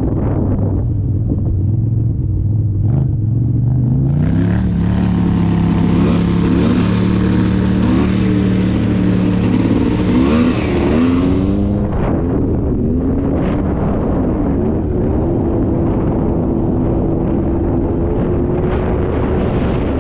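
Scrambler 400 two-stroke ATV engine running under way. It revs up about four seconds in and holds the higher speed, with a rushing noise over it, until about twelve seconds in, then eases back to a lower steady speed.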